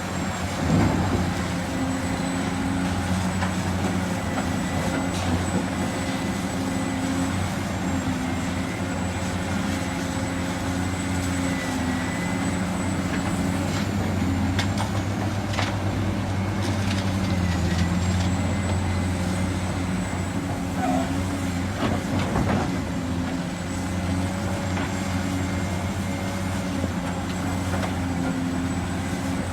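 Diesel engines of excavators and dump trucks running steadily at work, a low drone with a thin steady whine above it and a few sharp knocks about halfway through.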